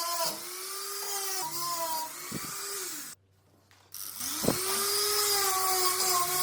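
Small high-speed power tool motor running with a whine that wavers in pitch. It winds down about three seconds in, stops briefly, then spins back up and runs on.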